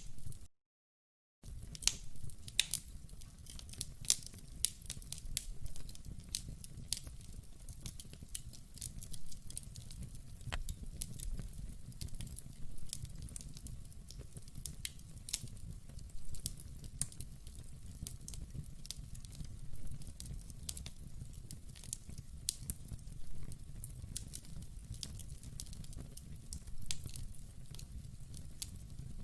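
Fire in a fireplace crackling: sharp pops and snaps, several a second and at uneven spacing, over a low steady rumble of the flames. The sound drops out to silence for about a second just after the start, then carries on.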